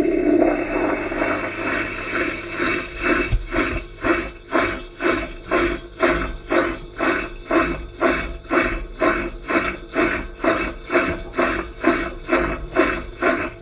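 Washing machine running, with a rhythmic swishing and rubbing pulse about twice a second as the drum works.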